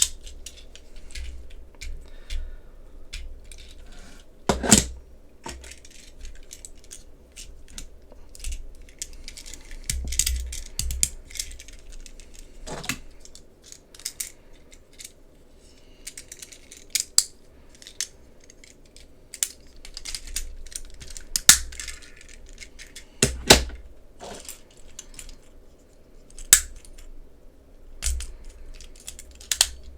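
Hard plastic toy parts being handled: irregular clicks and light knocks, with a handful of louder snaps scattered through.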